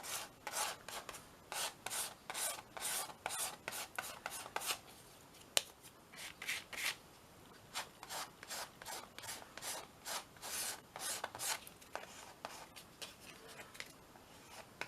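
Gesso being rubbed onto a small canvas in quick, short scratchy strokes, about two or three a second, with a brief pause and a single sharp tick about five and a half seconds in.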